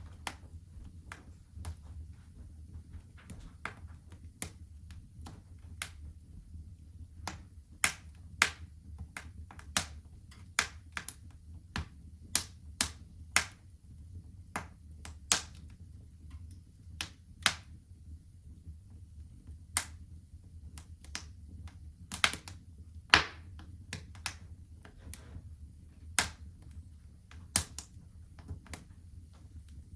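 Wood fire crackling in a home fireplace: irregular sharp pops and snaps, a few louder ones, over a low steady rumble of the flames.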